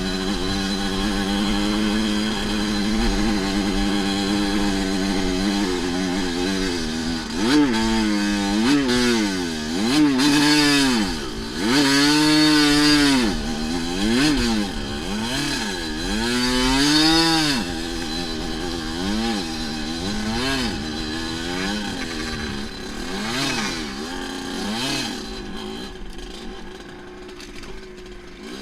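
Dirt bike engine running steadily, then revved up and down repeatedly for about ten seconds, its pitch rising and falling with each throttle blip. It then settles lower and fades near the end.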